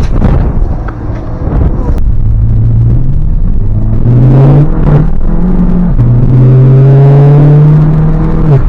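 Vehicle engine running loudly and being revved: the pitch climbs in steps around the middle, is held high for a couple of seconds, then drops back near the end.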